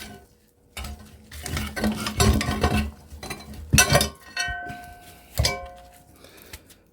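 Hand tools clinking and scraping against the metal of a scrapped electric motor while its copper windings are cut out by hand, a run of metal clinks, a couple of which ring briefly.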